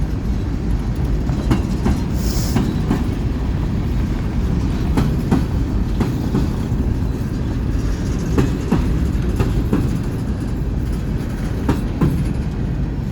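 Freight train cars rolling past with a steady low rumble, their wheels clicking over rail joints, often in pairs, every second or two. A brief high hiss or squeal comes about two seconds in.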